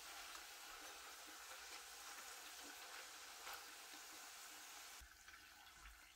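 Plantain slices deep-frying in hot oil: a faint, steady sizzle that drops noticeably about five seconds in.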